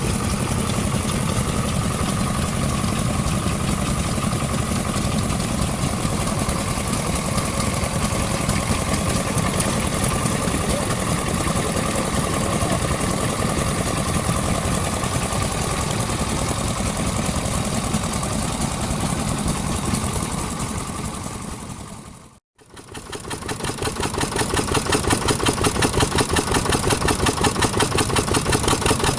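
Vintage engines running: one runs steadily, then after a brief drop-out a second engine runs with a fast, even beat.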